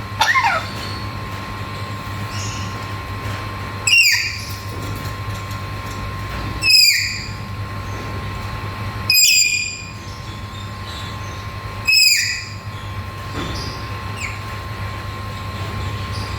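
Black-capped lory giving loud, harsh screeching calls, five in all, roughly one every two to three seconds, over a steady background hum.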